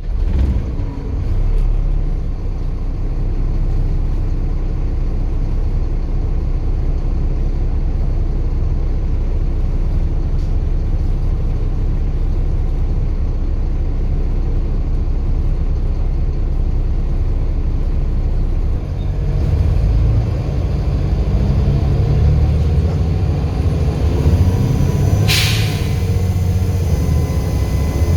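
Volvo B7 bus's diesel engine running steadily under way, its low rumble growing heavier about two-thirds of the way through. A short sharp hiss comes near the end.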